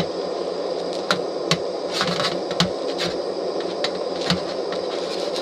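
Camp stove burner hissing steadily under a frying pancake, with irregular sharp clicks and taps of a utensil on the pan.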